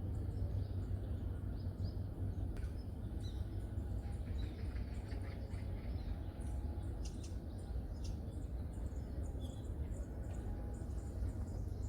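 Small birds chirping in short, scattered calls, several at once, over a steady low rumble.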